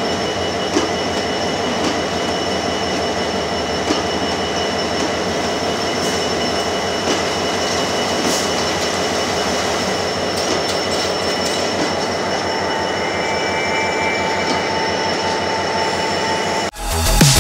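Sri Lanka Railways passenger train rolling along at a station: a steady rolling rumble of wheels on rail with a thin steady squeal and a few sharp clicks. Near the end it cuts off suddenly into loud electronic music with a heavy beat.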